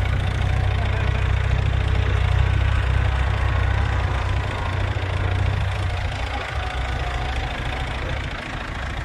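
Tractor diesel engine running with a steady deep rumble that eases off a little after about six seconds.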